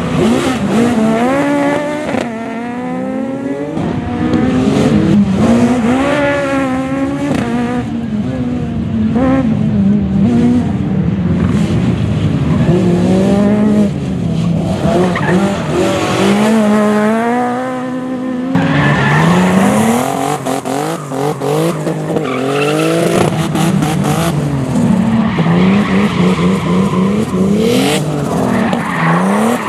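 Rally car engine at full racing load, revs climbing and dropping again and again through gear changes and lifts off the throttle, with tyres squealing.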